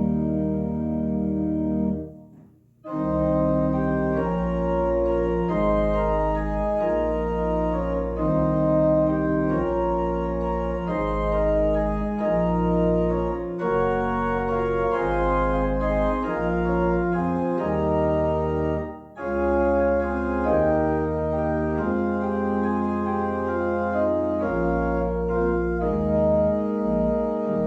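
Organ playing slow, held chords over a deep pedal bass, the chords changing about once a second. The music stops briefly about two seconds in and pauses again for a moment about nineteen seconds in.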